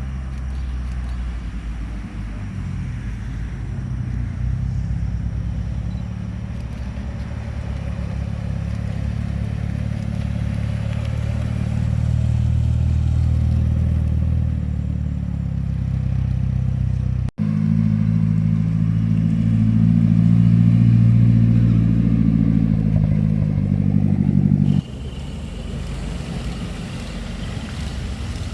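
Car engines running at low revs, a steady low drone of idling or slow driving with little revving. The sound changes abruptly twice, about two-thirds of the way through and again near the end.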